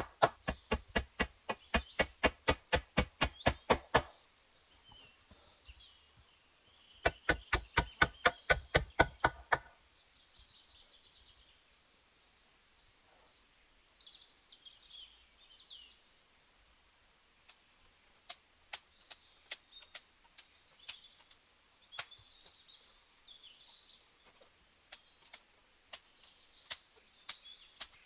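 Rapid, even knocking, about five strikes a second, in two runs: one stops about four seconds in, the other runs from about seven to ten seconds in. After that, faint birdsong with scattered single sharp clicks.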